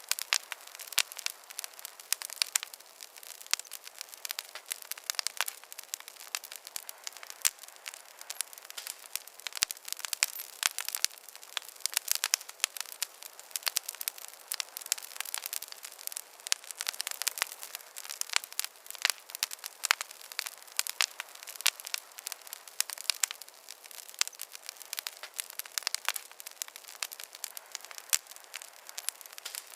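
Wood campfire burning, with a steady hiss and dense, irregular sharp crackles and pops.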